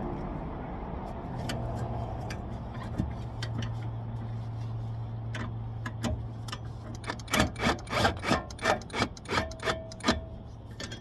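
Hand ratchet clicking in a quick, even run of strokes, about three a second, for a few seconds in the second half, as the bolts of a rear wheel bearing hub are run in and snugged. A steady low hum sits underneath.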